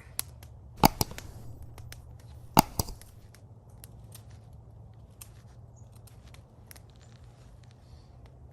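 Two loud, sharp cracks or knocks about a second and three-quarters apart, each followed quickly by a softer one, over scattered faint ticks.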